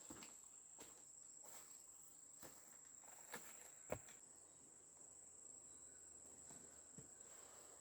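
Faint, steady high-pitched insect drone, with a few soft clicks and knocks scattered through it; the sharpest knock comes about four seconds in.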